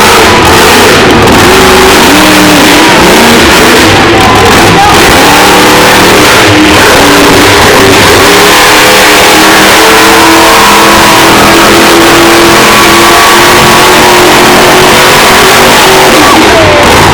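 Monster truck engine running hard and revving up and down, its pitch rising and falling repeatedly. The recording is loud enough to run at the top of its range throughout.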